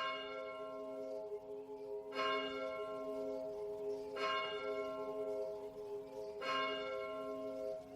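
A bell struck four times, about two seconds apart, each stroke ringing on under the next.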